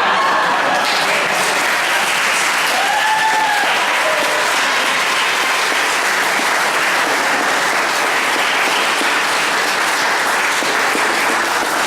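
Audience applauding steadily, with a brief whoop about three seconds in.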